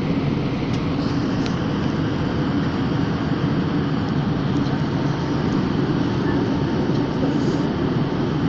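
Steady drone of an airplane in flight, engine and airflow noise heard from inside the cabin, low-pitched and unchanging.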